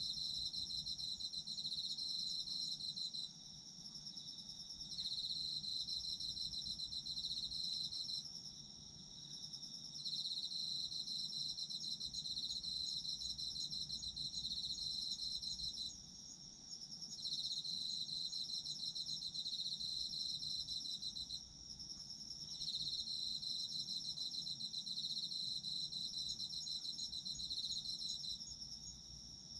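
Autumn insects calling together: one high trill runs steadily, while a second, slightly lower pulsing trill comes in bouts of three to six seconds with short pauses, five bouts in all.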